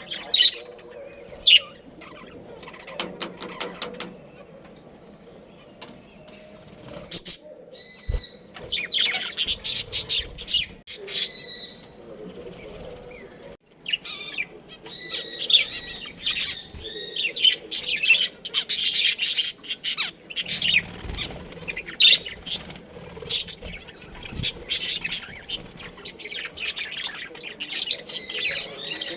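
Budgerigars chattering: many quick, high chirps and warbles, a few scattered at first, then a dense, loud run of chatter from about eight seconds in, with a short lull partway through.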